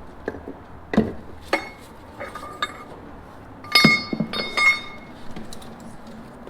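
Metal tools or parts being handled and knocked together: several sharp clinks and clanks, each leaving a short metallic ring, the loudest few coming in a quick cluster about four seconds in.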